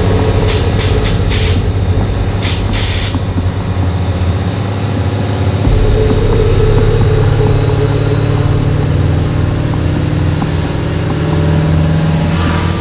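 Dodge Demon's supercharged V8 running steadily, with a faint high whine that slowly rises in pitch. Several short, sharp hisses come in the first few seconds.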